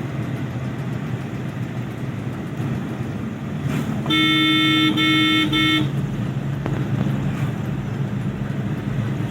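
Steady low car engine and road rumble while driving, with a car horn honking three times in quick succession about four seconds in, louder than the rumble.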